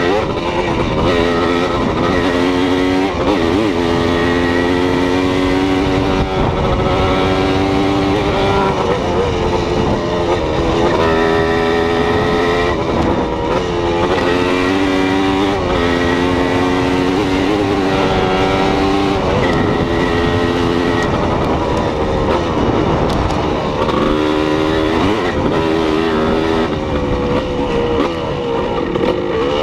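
A motor vehicle engine running steadily, its pitch rising and falling every few seconds as the revs change.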